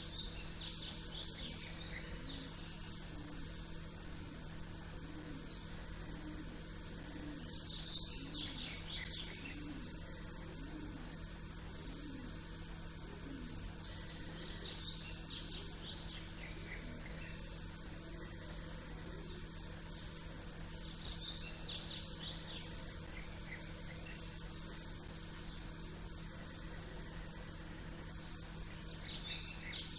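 Small songbirds chirping and twittering in short bursts every several seconds, over a steady low background hum.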